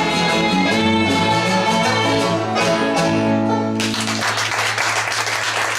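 Acoustic string band finishing a country song on a held final chord, then audience applause breaking out about four seconds in.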